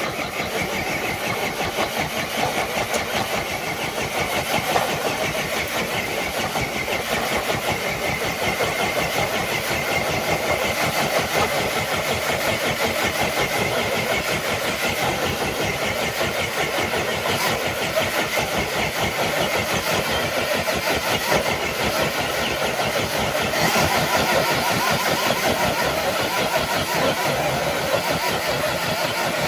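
Electric motor and geared drivetrain of an RC crawler truck running steadily under load as it drags a weighted dead sled, a continuous whirring with a fast rattle.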